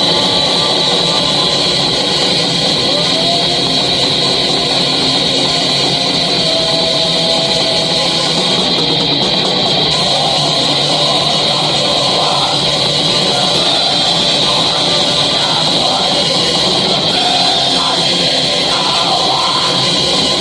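A metal band playing in rehearsal: a dense, unbroken wall of distorted electric guitar, loud and steady.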